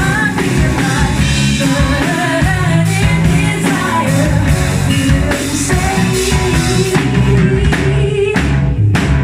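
Live rock band playing, with a lead vocal sung over electric guitar, bass and drum kit, and a few loud drum strikes near the end.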